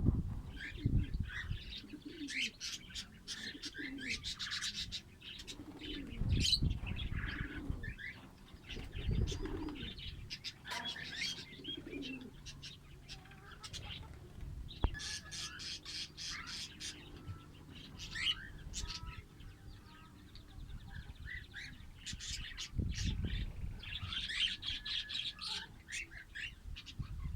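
Fischer's lovebirds chirping, with many short, shrill, repeated calls. Low thumps and rustling, typical of wings flapping, come in between.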